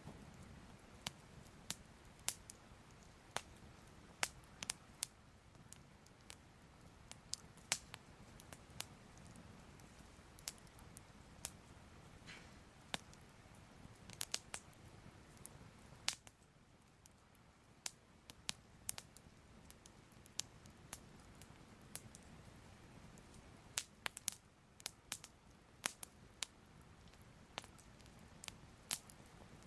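Soft crackling fire: irregular sharp crackles and pops, a few close together, over a faint low steady rumble.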